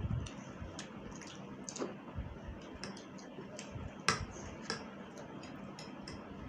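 A person eating spicy instant noodles close to the microphone: irregular wet clicks and smacks of chewing, the sharpest one about four seconds in.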